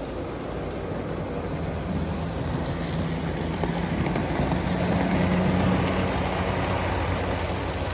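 Model train running on the layout: a pair of model SD45 diesel locomotives pulling a long string of freight cars, motors humming and wheels rumbling over the rails, growing louder toward the middle as it comes close and then easing a little.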